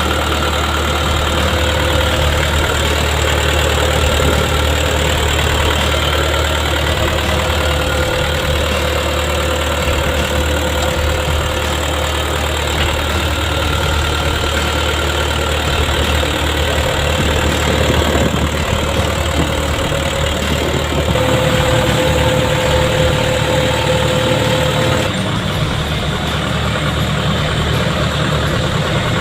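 Komatsu PC110-7 hydraulic excavator's diesel engine running steadily, with a thin steady whine over the engine hum.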